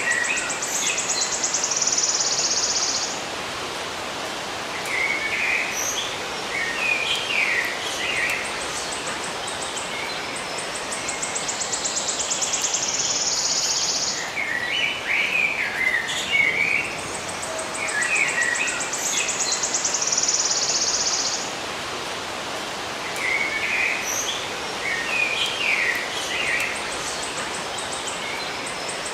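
Birds chirping in short bursts, alternating with a high, rapid buzzing trill lasting a few seconds each time, over a steady background hiss. The same pattern of trill and chirps comes back several times.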